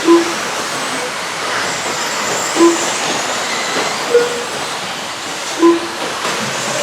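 Short electronic beeps, four of them at uneven intervals of about one and a half to two and a half seconds, typical of a transponder lap-counting system marking RC trucks crossing the timing line. Under them runs a steady hiss from the 13.5-turn electric stadium trucks racing on the track.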